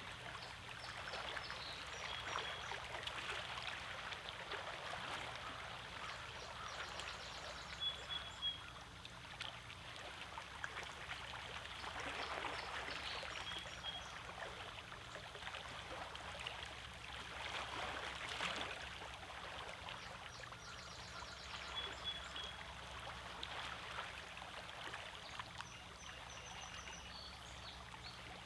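Small lake waves lapping and washing over a rocky shore: a steady splashing wash that swells every few seconds. Short high bird chirps sound now and then.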